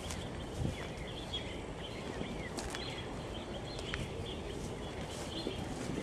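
Outdoor ambience: small birds chirping in short calls every second or so over a steady low background noise, with a few short ticks.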